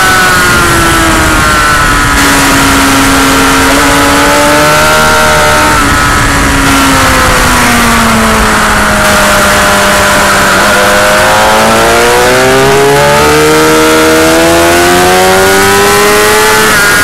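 Motorcycle engine at speed on a race track, buffeted by heavy wind noise. Its note falls steadily for about the first half as the bike slows, then climbs again under acceleration, stepping up through the gears.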